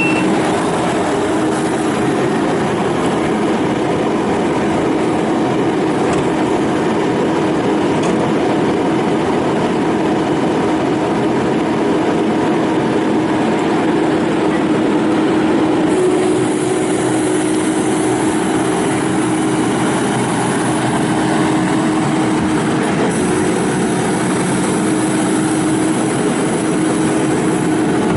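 Kubota SVL95-2S compact track loader running steadily under power, its diesel engine giving an even drone. A thin high whine comes in a little past halfway, drops out briefly, then returns.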